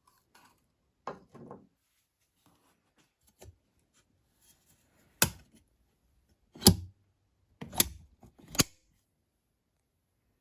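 A few small rustling clicks, then four loud, sharp clicks or knocks over about three seconds, from the top-loading washing machine being handled.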